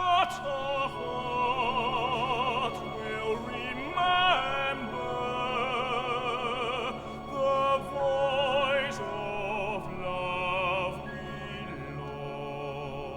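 A high operatic voice singing held notes with wide vibrato over sustained low instrumental chords. The singing stops about eleven seconds in, leaving the accompaniment holding on.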